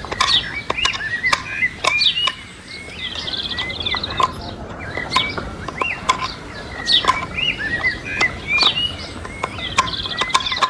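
Small birds chirping over and over in short arching calls, with sharp clicks scattered among them.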